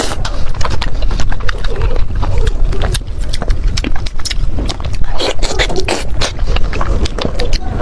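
Close-miked chewing of chicken heads: wet smacking and slurping broken by many sharp, irregular crunches.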